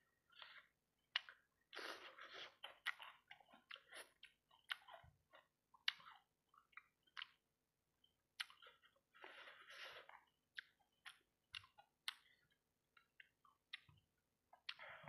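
Quiet, close-miked chewing of fried rice-ball satay in sauce: irregular wet mouth smacks and clicks, with two denser stretches of chewing, about two seconds in and again around nine to ten seconds.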